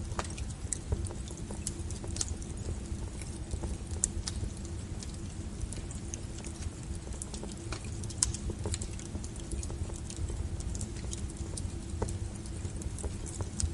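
Wood fire burning steadily with a low rumble and irregular sharp crackles and pops from the burning logs.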